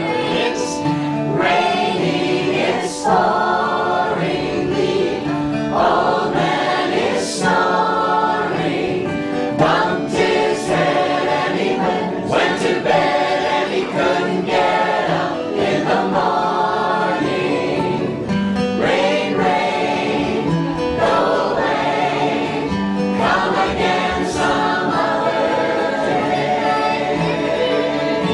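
Group of voices singing a folk song together in harmony, with a regularly strummed acoustic guitar accompaniment.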